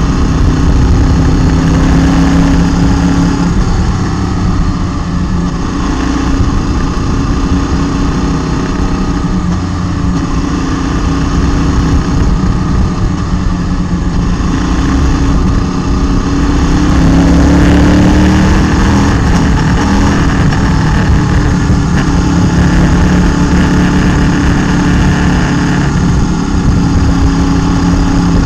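Motorcycle engine running while riding, heard close from a camera mounted on the bike, over a heavy low wind rumble. The engine note rises and gets louder about seventeen seconds in, as the bike accelerates.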